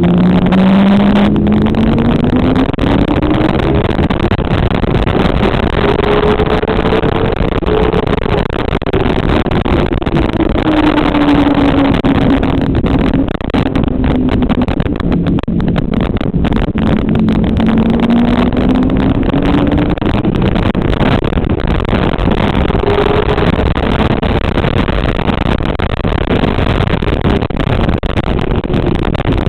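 Motorcycle engine running hard on a racetrack, its pitch rising and falling slowly and repeatedly as the bike speeds up and slows, under a constant rush of noise.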